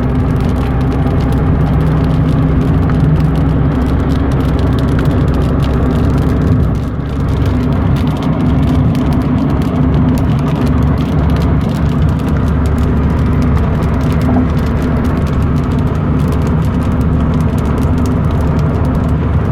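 A steady, loud low mechanical hum over a rumble, holding an even pitch, with a brief dip about seven seconds in.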